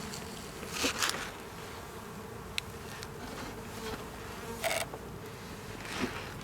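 Honey bees buzzing as a steady hum around an opened beehive, with a few brief knocks from handling.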